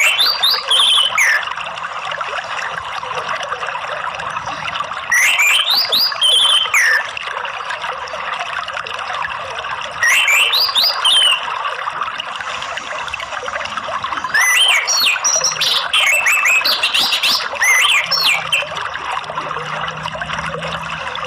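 Orange-headed thrush singing in short phrases of gliding, rising and falling whistles, four times, the last one longer, over a steady rush of running water.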